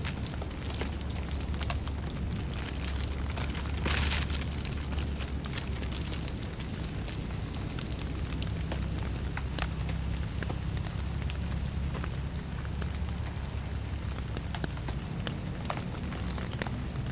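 Steady rain, with many sharp individual drops striking a nearby surface and a brief surge about four seconds in.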